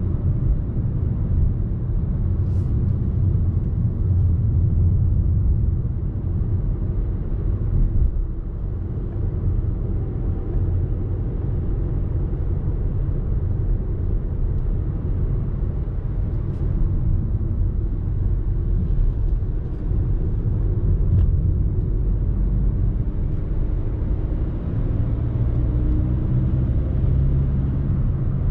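Audi A3 30 TDI's 1.6-litre four-cylinder turbo-diesel driving on the road, a steady low rumble. Near the end the engine note rises as the car accelerates.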